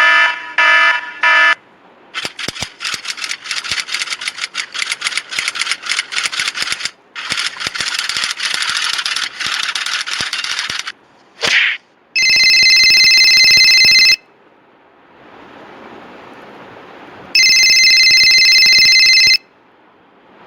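A string of stock sound effects. Three short electronic beeps come first. Then a typewriter clatters with rapid key strikes for about nine seconds, pausing twice, followed by a brief swish. Last come two long electronic rings of about two seconds each, a few seconds apart.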